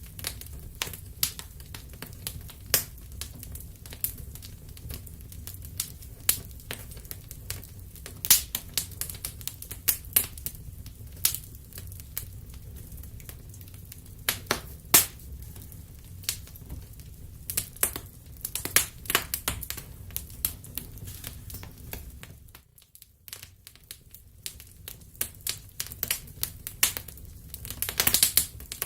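Wood fire crackling, with irregular sharp pops and snaps over a steady low rumble of the burning logs. The sound briefly drops away about two-thirds of the way through, then the crackling resumes.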